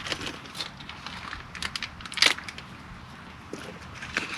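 Light clicks and rattles of small screws and door-handle parts being handled, with one sharper click a little past two seconds in.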